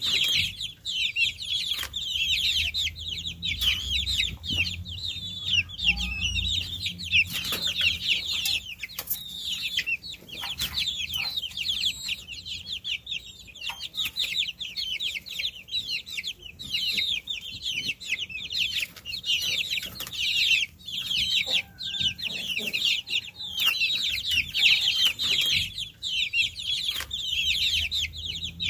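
A brood of baby chicks peeping nonstop, many high-pitched chirps overlapping, with occasional light clicks and a faint low rumble in places.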